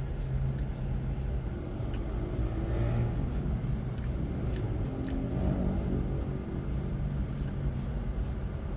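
Steady low rumble like a vehicle engine running, with a few faint clicks scattered through it.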